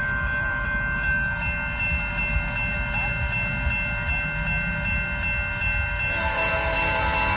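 Train running with a steady low rumble and several steady high-pitched tones held over it. A second set of lower tones joins about six seconds in.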